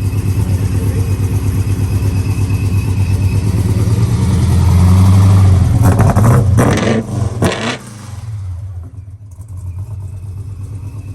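Car engine running with a deep, pulsing exhaust note that swells louder about four seconds in, gives a few short revs between six and eight seconds, then settles back quieter.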